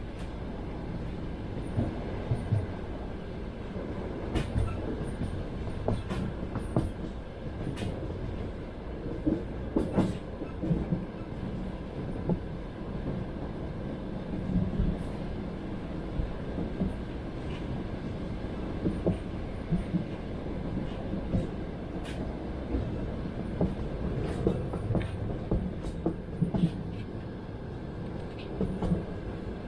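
Train wheels clacking over the rails as the carriage runs along, a steady low rumble with frequent irregular sharp clacks and knocks, heard from inside the carriage.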